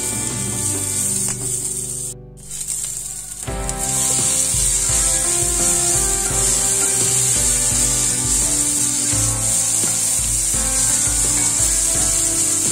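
Onions and chopped tomato sizzling in oil in a cast-iron skillet while a wooden spatula stirs and scrapes against the pan, over background music. The sound drops out briefly about two seconds in, and the sizzling comes back stronger from about three and a half seconds.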